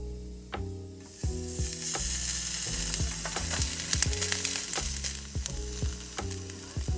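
Food sizzling in a hot pan, a dense hiss that starts suddenly about a second in, over background music of steady pitched notes.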